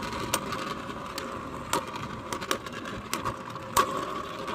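3D-printed Beyblade spinning tops whirring and clashing in a plastic stadium, with about six sharp, irregular clicks of hits over a steady hum.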